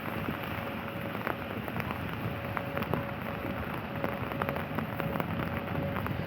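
Steady rain falling, with many single drops ticking sharply close to the microphone.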